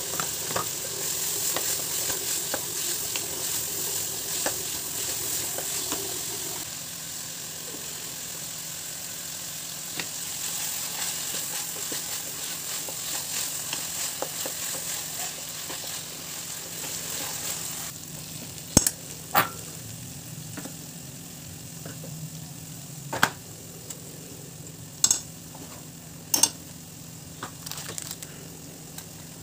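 Chopped onion and tomato frying in oil in a non-stick kadhai, a steady sizzle with the scrape of a wooden spatula stirring it. In the latter part, several sharp knocks against the pan.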